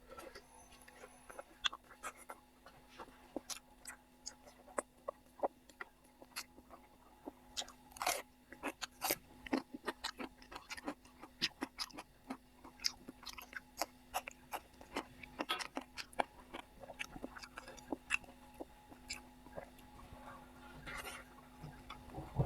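A person chewing and biting food close to the microphone: many short, irregular wet clicks and smacks with occasional crunches.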